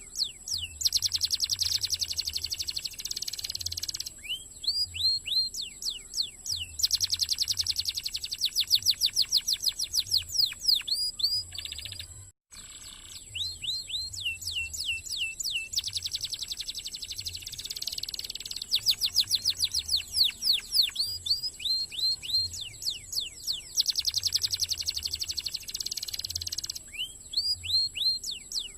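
Domestic canary singing a fast, dense song of rapid trills and runs of falling whistled notes, with a brief break about twelve seconds in.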